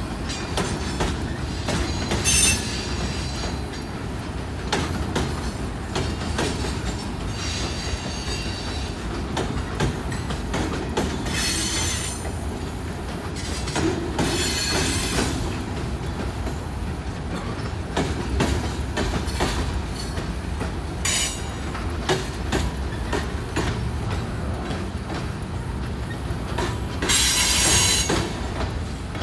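Freight cars of a long mixed freight train rolling past: a steady rumble and clatter of steel wheels on the rails, broken by several brief high-pitched wheel squeals, the loudest near the end.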